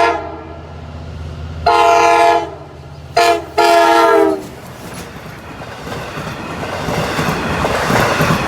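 Long Island Rail Road diesel express train blowing its horn in the long, long, short, long grade-crossing pattern as it approaches, the first blast cutting off just as the pattern continues. After the last blast, the rumble and wheel clatter of the train passing at speed builds steadily louder.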